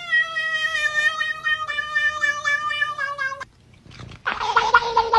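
A cat yowling: one long, drawn-out call that sags slightly in pitch and cuts off about three and a half seconds in. After a short pause, a rougher, lower yowl starts near the end.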